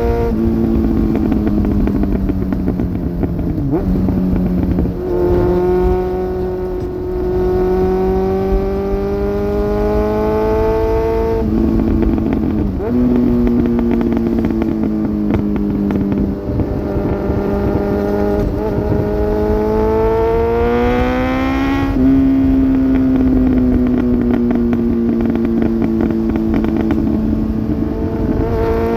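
2002 Suzuki GSX750F's inline-four engine running through a Black Widow aftermarket exhaust under way, the note climbing steadily in pitch as it accelerates, with sudden pitch changes at gear changes about 5, 11, 13 and 22 seconds in. It eases down in pitch near the end.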